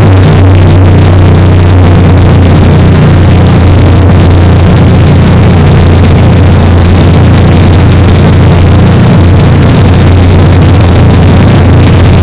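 Motorboat engine running steadily at a constant pitch, with a loud rushing noise over it.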